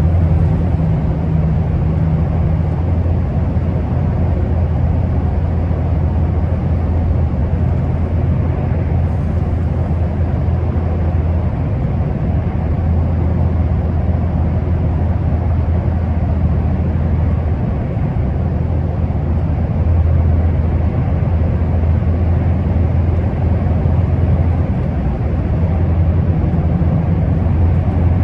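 Scania R650 truck's V8 diesel engine with road noise while driving, a steady low drone that eases a little now and then.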